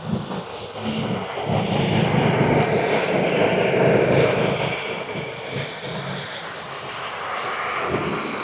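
Airplane passing overhead: a broad engine noise that swells to its loudest about halfway through and then slowly fades.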